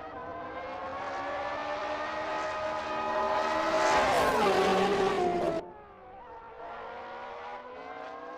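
Racing car engine revving up, rising in pitch and getting louder, then dropping in pitch as it passes by about four seconds in. It cuts off abruptly, and a quieter engine revs up again.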